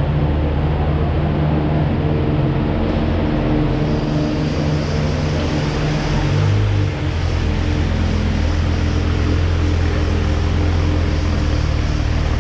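BMW 3 Series coupe's engine running as the car is driven slowly: a steady low drone, with a short swell about six and a half seconds in.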